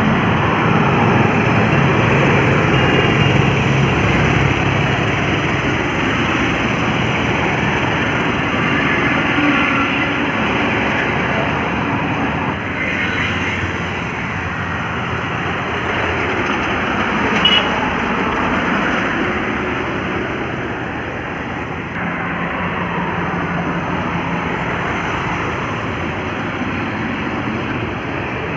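Heavy trucks running along a highway: steady traffic noise with a truck engine's drone, strongest in the first few seconds. A brief sharp sound stands out about two thirds of the way through.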